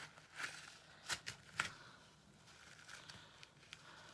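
Faint handling noises of crafting materials on a work table: a few sharp light clicks in the first second and a half, then soft rustling.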